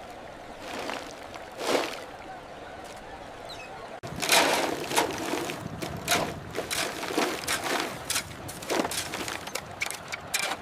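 Running water, steady with a couple of swells, then an abrupt change about four seconds in to a busy run of irregular splashes and knocks, like water being churned and debris being moved.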